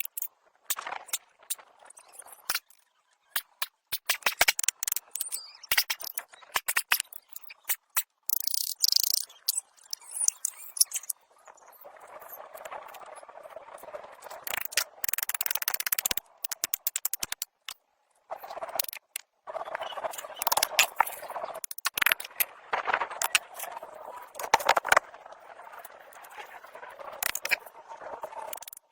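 Workshop repair noise: a run of sharp clicks and knocks, with stretches of scraping noise between them and short bursts of hiss.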